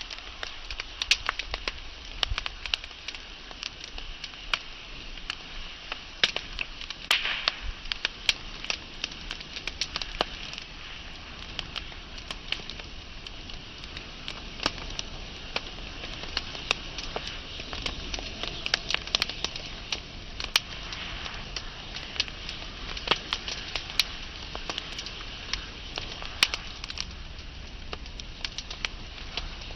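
Wood fire burning with a steady soft hiss and frequent irregular crackles and pops from the burning logs.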